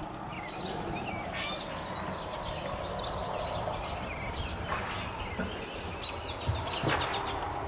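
Several small birds chirping in quick, scattered calls over a steady low background hiss, with two brief knocks near the end.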